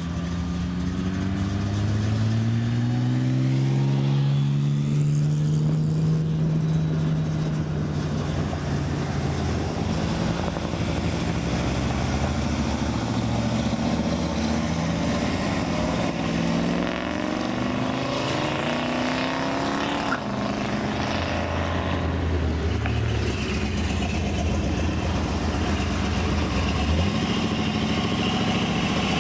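Classic car engines driving past one after another, running and accelerating away. The engine pitch rises in the first few seconds and again about halfway through, over a steady low engine drone.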